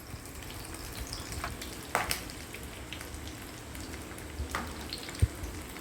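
Coated chicken leg pieces deep-frying in hot oil kept on a low flame: a steady sizzle with scattered crackles and pops, and a soft thump near the end.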